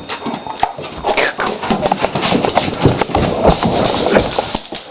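A dog scrambling at a disc: a rapid, irregular run of knocks and scuffles from its paws and claws.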